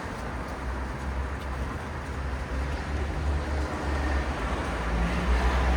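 City road traffic: a steady low rumble of engines and tyre noise, swelling louder over the last couple of seconds as vehicles come closer.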